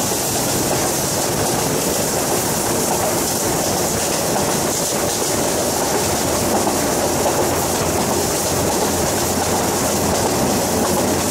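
A State Railway of Thailand passenger train running along the track, heard from an open window of one of its coaches: a steady rumble and rush of wheels on rails and passing air.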